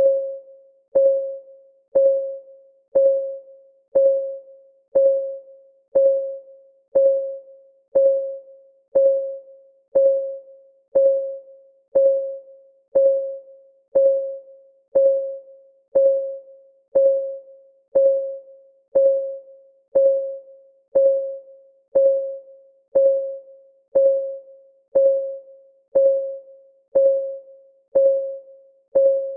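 Clock-ticking sound effect of a countdown timer: an even tick about once a second, each a short pitched tock that dies away quickly.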